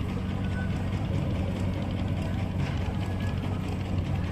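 Boat engine running steadily: a continuous low drone with no change in speed.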